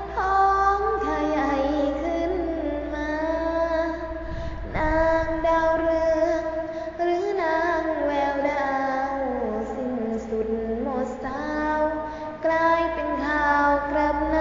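A female voice singing a Thai song in long held, wavering notes, one of them sliding slowly down in pitch about halfway through.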